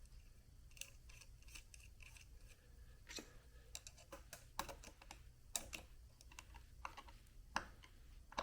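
Faint, irregular light clicks and taps of small metal carburetor parts and a tool being handled while the main jet is fitted into the carburetor body, with a few sharper ticks in the second half, over a steady low hum.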